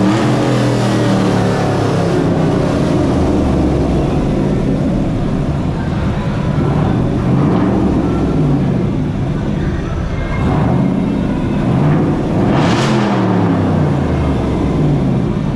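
Car engine revved hard again and again, its pitch climbing and falling several times, with a loud sharp blip about thirteen seconds in.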